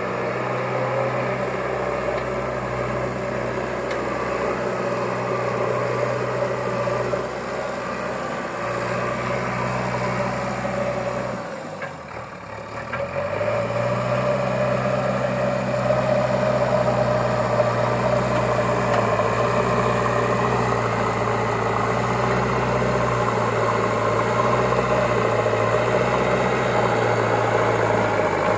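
A motor running with a steady low drone. It dips briefly about twelve seconds in, then picks up again and holds steady.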